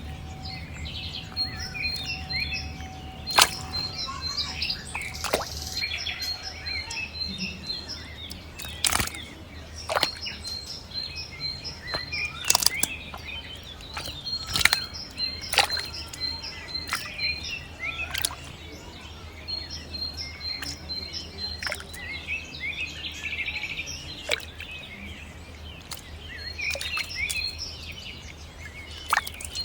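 Birds chirping, one of them repeating a short high chirp in quick runs, with sharp clicks every second or two and a faint low hum underneath.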